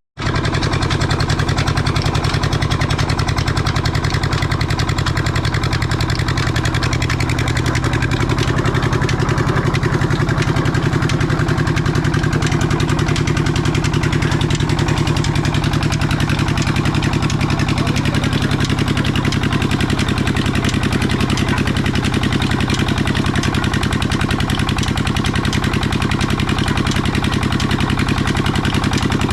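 Old desi diesel engine running steadily with a fast, even beat, driving a sugarcane crusher.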